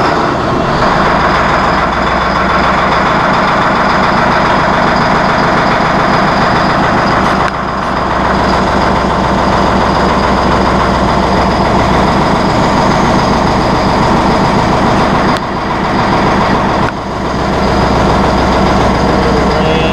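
Large diesel engine running steadily, with a few brief dips in level.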